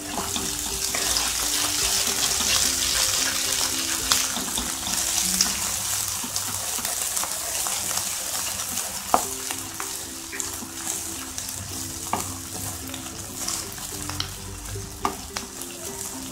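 Chopped onions and ginger-garlic paste sizzling in hot ghee in a kadai while a wooden spatula stirs and scrapes them. A few sharp knocks of the spatula on the pan come through. The sizzle is loudest in the first few seconds and eases off later.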